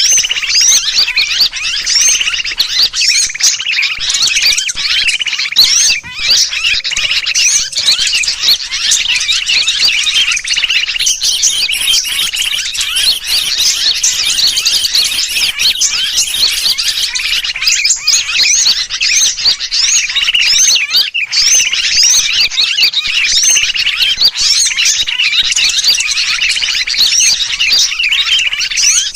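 Bird-lure recording of a dense, unbroken chorus of many small birds chirping and twittering together, mixed with the agitated distress calls of a sooty-headed bulbul (kutilang) as if trapped. A mix like this is played to draw wild birds in for trapping.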